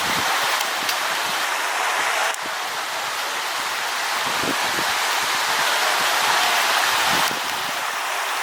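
Running stream water: a steady rushing hiss that drops a little in level twice, about two seconds in and again near the end.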